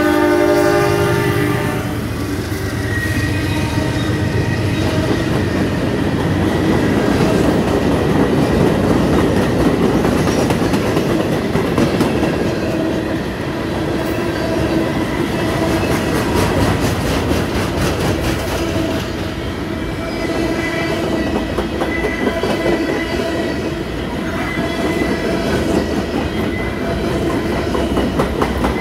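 Freight train's loaded flatcars rolling past at close range: a steady rumble of wheels on rail with a continuous clickety-clack over the rail joints. The locomotive's horn sounds its last note in about the first second and a half.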